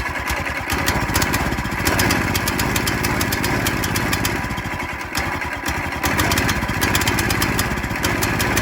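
Predator 212cc single-cylinder engine on a go-kart running steadily at low, governed speed, dipping slightly about five seconds in.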